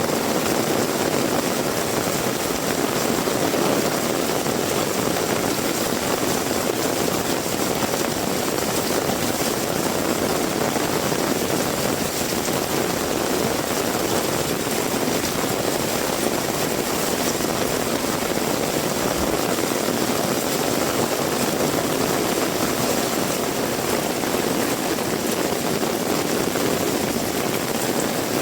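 Heavy rain pouring steadily, an even, unbroken rush with no let-up.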